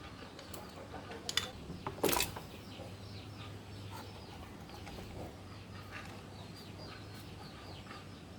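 Small birds chirping over and over in short falling calls, with two sharp knocks, about one and two seconds in, over a low steady hum.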